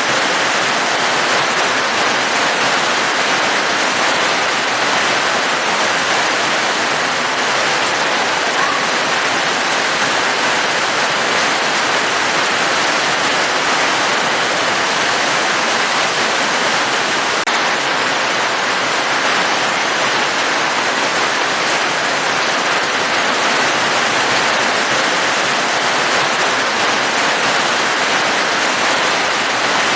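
Steady rain falling: an even, unbroken hiss with no separate drops or breaks standing out.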